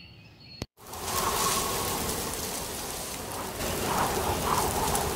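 Faint ambience, then after a brief dropout about a second in, a steady, loud hiss of heavy rain begins.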